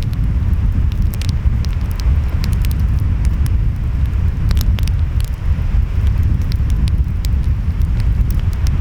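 Wood fire crackling, with scattered sharp pops, over a steady low rumble of ocean waves and wind.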